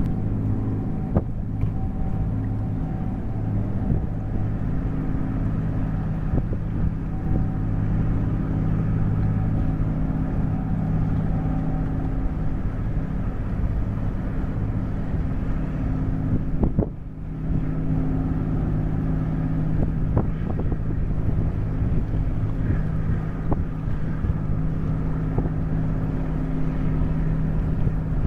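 Steady low drone of a container ship's diesel engines and machinery under way, made up of several held tones over a rumble, with wind on the microphone. The drone dips briefly about two thirds of the way through and comes back with its tones shifted.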